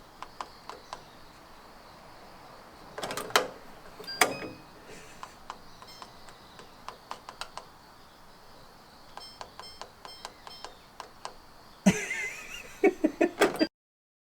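Keypad of an electronic door lock being pressed, each key giving a short beep as random codes are tried on the locked door. There are runs of quick presses, several a second, a few louder clacks about three and four seconds in, and a burst of louder clatter near the end before the sound cuts off suddenly.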